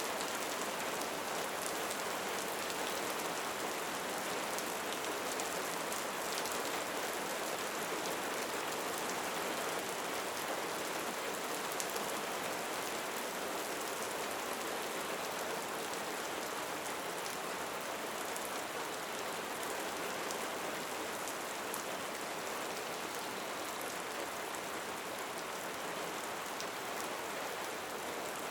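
Steady rain falling: an even, constant hiss with faint scattered drop ticks.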